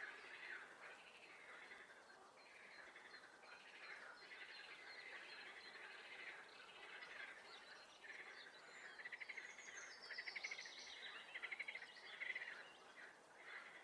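Faint chorus of frogs and songbirds calling in a spring swamp. A run of louder, rapidly pulsed trills comes in about nine seconds in and stops near the end.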